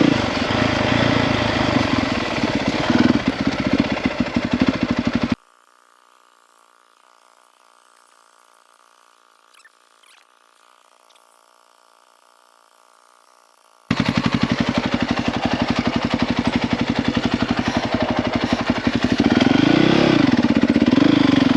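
450 dirt bike's single-cylinder four-stroke engine running, cutting off abruptly after about five seconds to near silence with a few faint clicks, then running again from about fourteen seconds, with a brief rev rising and falling near the end.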